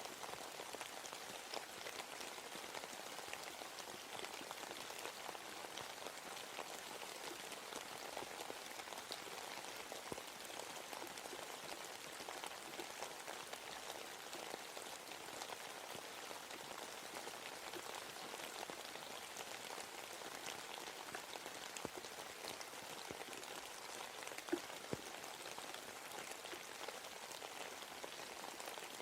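Steady rain falling in a forest, an even hiss with the patter of individual drops, and a couple of louder single drops near the end.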